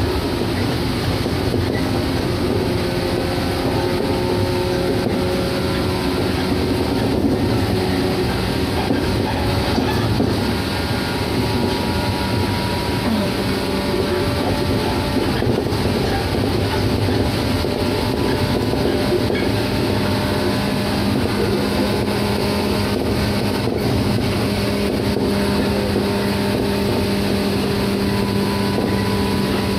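Shinano Railway 115 series electric train running at a steady pace, heard from inside the car: an even rumble from the wheels and running gear with steady humming motor tones over it.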